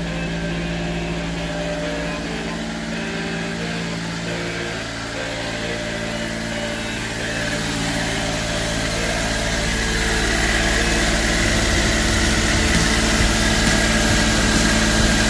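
Small carbureted kei van engine idling steadily and evenly, with barely any vibration. It grows somewhat louder and hissier in the second half.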